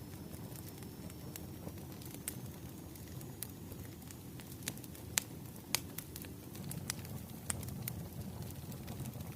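Bonfire crackling: irregular sharp pops and snaps over a steady low rumble of burning wood, with two louder pops about five and six seconds in.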